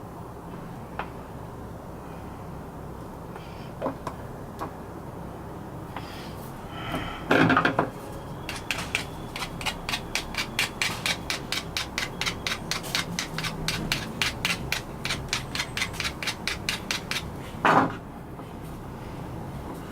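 Quick, even scraping strokes by hand, about four a second for some nine seconds, like a small file or abrasive worked back and forth over a part. A louder rough rub comes just before the strokes start and another just after they stop.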